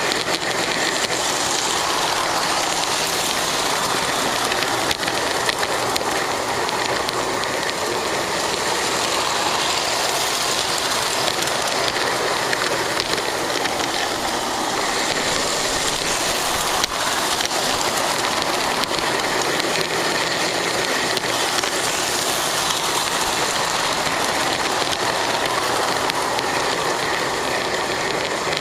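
Lionel GP9 O gauge model locomotive running steadily along its track, heard from a camera riding on the engine: a continuous even rush of motor and wheel noise.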